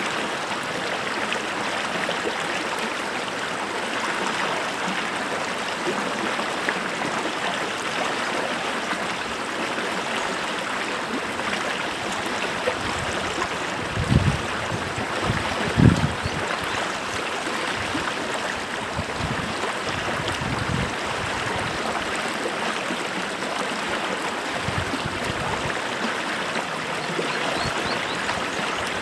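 Small stream running steadily, a continuous rush of flowing water. Twice about halfway through, brief louder low sounds stand out above the flow.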